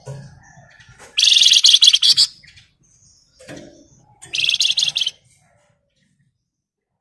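Flamboyan songbird singing two fast, dense rattling trills ('ngebren'), each about a second long, with softer calls between them, then falling quiet.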